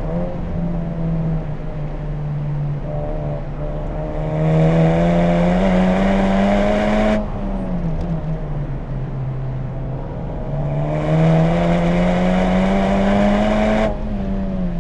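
Honda Civic Type R FK8's turbocharged four-cylinder engine and HKS aftermarket exhaust on track: two hard accelerations, the engine note rising in pitch and getting louder for about three seconds each, and each one cutting off suddenly, followed by a falling note as the car slows between them.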